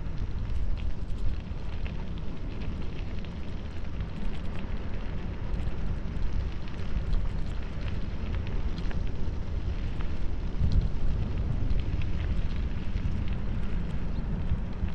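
Wind buffeting the microphone of a bicycle rolling fast downhill, a steady deep rumble, with scattered small ticks and crackles from the tyres running over a loose road surface.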